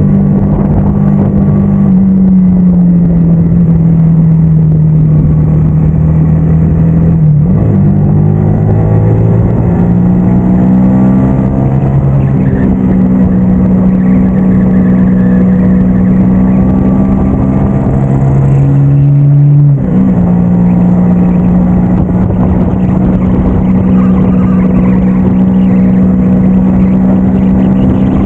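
Motorcycle engine running under way, its note dropping a couple of seconds in, then rising steadily as it accelerates. The note breaks briefly twice, about seven and twenty seconds in, and resumes at a new pitch.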